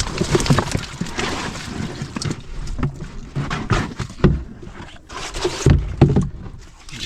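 Sounds aboard a small open fishing boat at sea: water sloshing against the hull and wind, with scattered knocks and clatter from handling gear and fish on board.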